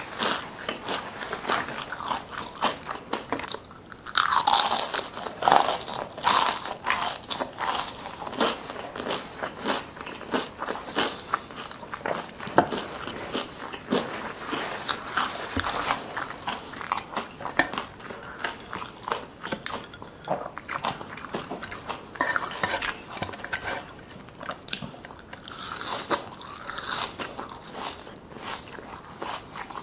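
Close-miked eating: a person biting and chewing crunchy fried food, with irregular crisp crunches and wet mouth sounds.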